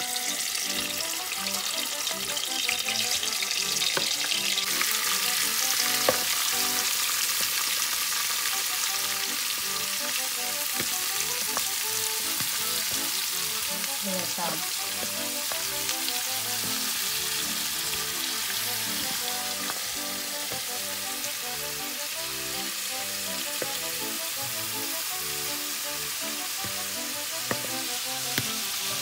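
Prawns sizzling as they fry in hot mustard oil in a non-stick karahi: a steady crackling hiss, a little louder in the first few seconds.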